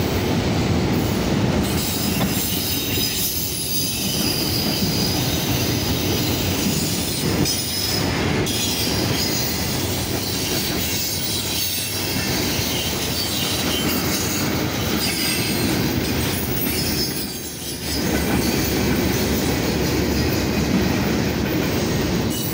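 Freight cars rolling past close by: a steady rumble and clatter of steel wheels on the rails. The sound dips briefly about three-quarters of the way through.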